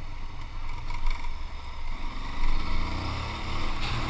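Aprilia Tuareg 660's parallel-twin engine running under way, its pitch rising about two seconds in as it accelerates, under a heavy rumble of wind on the microphone.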